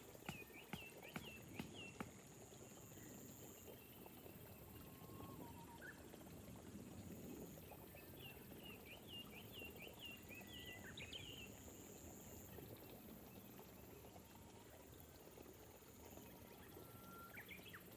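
Gentle rain falling, a faint soft even patter, with a few sharp drip ticks in the first two seconds. A bird calls in quick runs of short chirping notes near the start and again from about eight to eleven seconds in.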